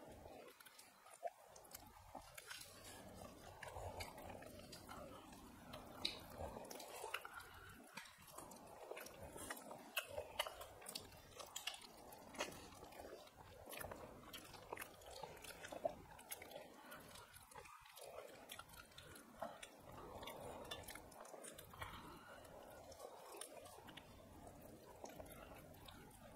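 Faint chewing and lip-smacking of people eating rice and chicken curry with their hands, with many short, scattered smacks and clicks.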